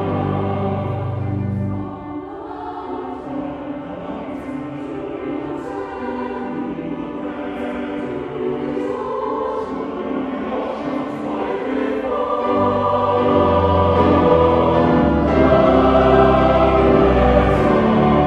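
Choir singing a worship song in long held chords with accompaniment. The low notes drop out about two seconds in and the music builds back louder from about twelve seconds in.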